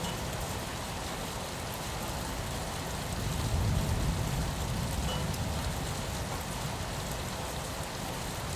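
Steady rain pattering on window glass, an even hiss of drops. A low rumble swells and fades about three to four seconds in.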